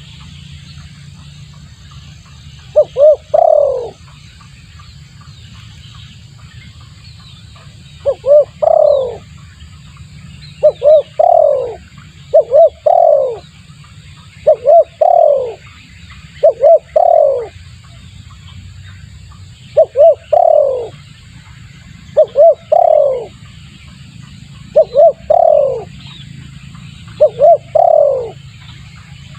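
Spotted dove (tekukur) cooing, used as a lure call: about ten phrases, each two short notes and a longer falling coo, coming roughly every two seconds after a longer pause near the start. A low steady hum lies underneath.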